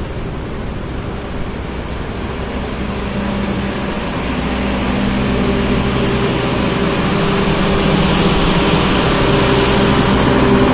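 Diesel-electric locomotive engine running with a steady hum that grows gradually louder, as a locomotive-hauled train or light engine draws near.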